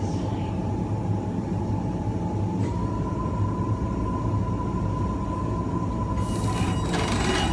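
LIRR Kawasaki M9 electric multiple unit running at speed, with the steady whine of its Mitsubishi IGBT-VVVF inverter and AC traction motors over the wheel and track rumble. The whine steps up slightly in pitch about three seconds in. A hiss joins it near the end.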